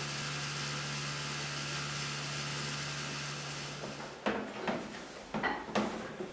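Leaf blower's small engine running steadily with a hiss of air, cutting off about four seconds in; a few knocks and clattering follow.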